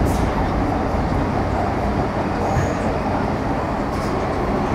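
Steady running noise inside an MTR Metro Cammell M-Train electric multiple unit with GEC GTO chopper traction, heard between stations.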